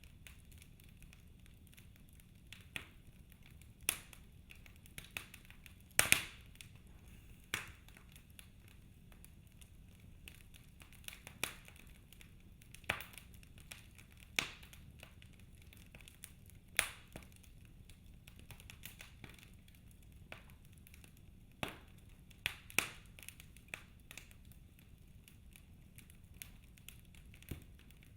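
Fire in a fireplace crackling: irregular sharp pops and snaps, about a dozen, over a faint steady hiss.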